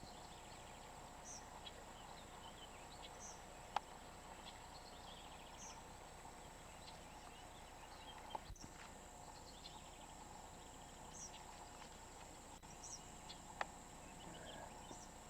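Faint evening outdoor ambience: a steady high insect drone with scattered faint chirps, and three soft clicks.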